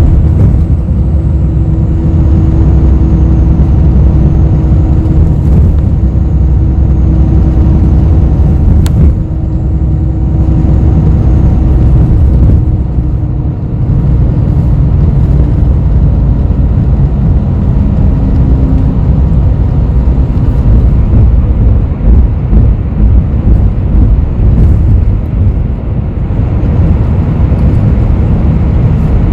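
Interior of a city bus on the move: steady low engine and road rumble, with a faint hum in the engine sound that fades out about halfway through and a single brief click.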